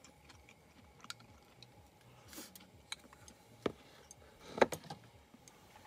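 Scattered light clicks and taps of small hard objects being handled, with a sharper knock about four and a half seconds in.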